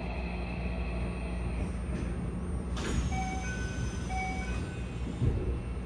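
Keikyu 1000-series train running, heard from inside the carriage as a steady low rumble. About three seconds in, the on-board PA clicks on and a two-note chime plays twice, and a short thump comes near the end.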